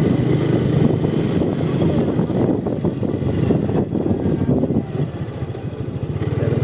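Motorcycle engine running steadily while riding, with a rough low drone that drops in level briefly about five seconds in.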